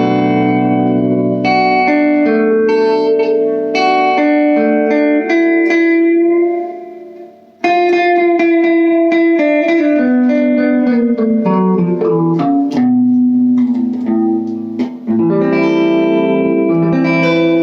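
Electric guitar played through an all-tube amp on the neck pickup with the tone knob rolled down to about 2 of 10, gain at 4 and volume low: chords and single notes ringing out, fading once and starting again with a new chord about halfway, then another near the end.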